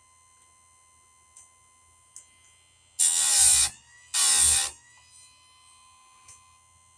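A chainsaw chain tooth being ground on a chain sharpener: two short, harsh grinding strokes about a second apart, each under a second long. Faint ticks sound between them.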